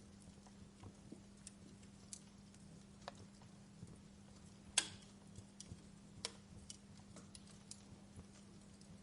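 Wood fire crackling in a fireplace: sparse, irregular small pops and snaps, with one sharper pop about five seconds in and another a little over six seconds in.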